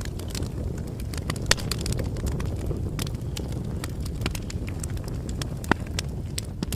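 Campfire crackling: a low, steady rush of flames with frequent, irregular sharp pops from the burning wood. Two pops stand out as louder, one about a second and a half in and one near the end.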